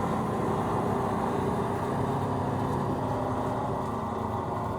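Steady low drone of a vehicle engine idling, with an even hum that does not change.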